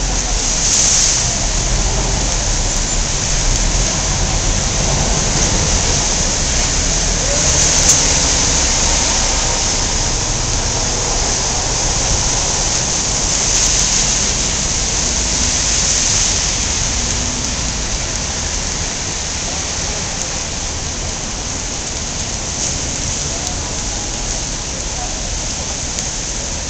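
Steady rain falling, a continuous hiss over a low rumble.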